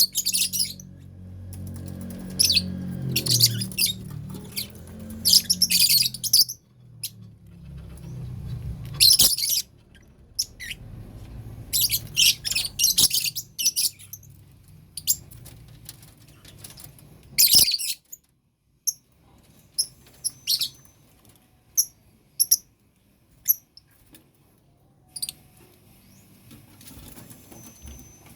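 Lovebirds in a colony cage calling in short, shrill bursts of chirps and squawks, scattered irregularly, thinning out in the second half. A low hum runs underneath for the first half or so.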